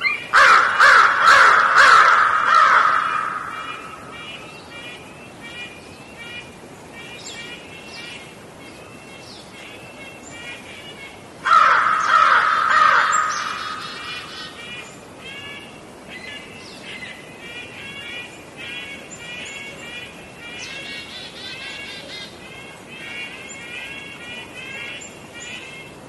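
Birds calling: two loud runs of harsh, rapidly repeated calls, the first starting about half a second in and the second about 11 seconds in, each fading over two or three seconds, over steady chittering from many birds.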